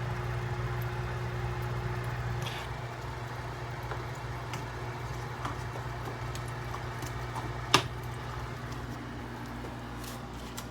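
Steady low mechanical hum, with a few faint ticks and one sharp click about three quarters of the way through.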